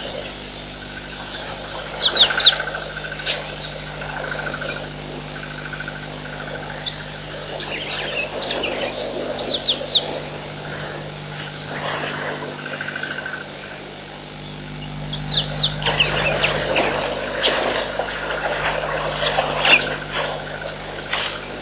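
Wild birds calling around a waterhole: many short, high, falling chirps scattered throughout, with a rapid trill a couple of seconds in, over a steady low hum.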